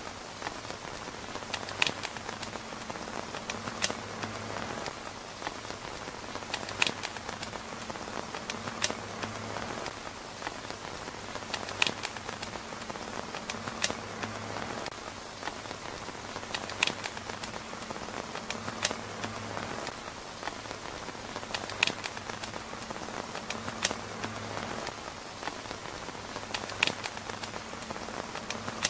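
Rain falling on a tent's fabric roof: a steady hiss of drops, with a sharp pop every two to three seconds.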